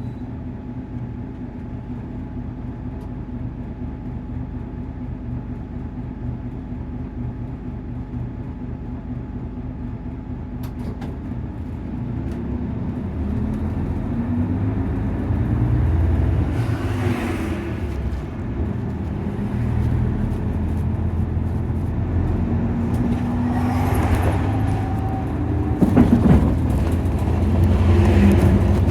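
Diesel engine of a Nissan Diesel KC-UA460LSN route bus running, heard from inside the cabin. From about twelve seconds in, the engine note rises and falls repeatedly as the bus pulls away and works up through its gears, with a few hissing swells and a single knock near the end.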